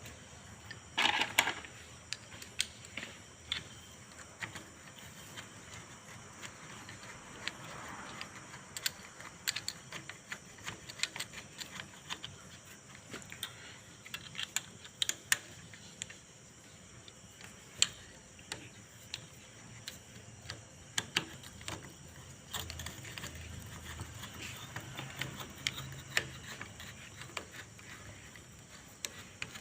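Irregular metallic clicks and clinks of hand tools and bolts being handled during car repair work, with a louder rattle about a second in.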